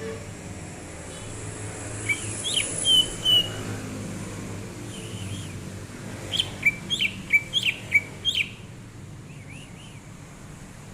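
Cucak ijo (green leafbird) singing: a few short chirps and whistled notes about two seconds in, then a quick run of sharp, falling whistled notes around the middle, over a steady low background rumble.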